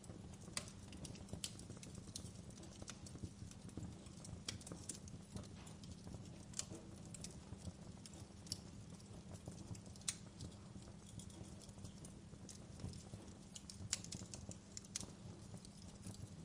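Wood fire in a fireplace crackling: irregular sharp pops and snaps over a low steady rumble, with two louder pops, one about midway and one later on.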